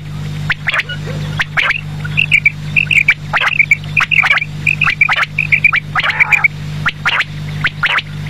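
Quail (batair) calling over and over in short sharp calls, with a run of quick high notes in the middle, over a steady low hum.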